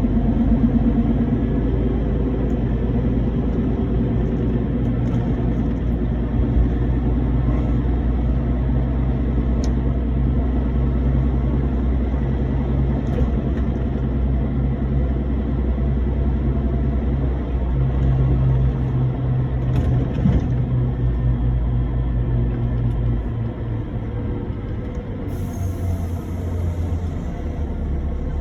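Heavy truck's diesel engine running steadily under way, with road rumble; the engine note changes and eases slightly about three quarters of the way through.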